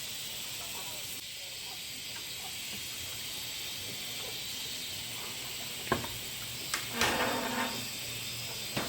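Food frying in a pan, giving a steady high sizzling hiss, with a few sharp knocks about six seconds in and again near the end.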